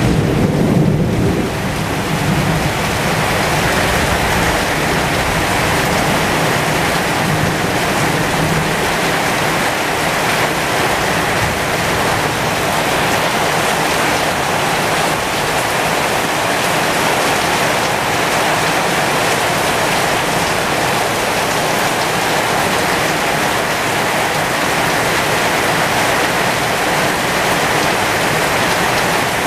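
Heavy, steady rain falling on the leaves of a pomegranate tree, with a low rumble of thunder underneath in the first several seconds.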